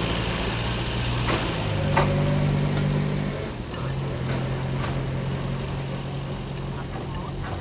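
Sugar-railway track maintenance car's engine running, its speed changing in steps about a second and a half in and again about three and a half seconds in, then settling to a steady lower idle. A few sharp knocks sound over it.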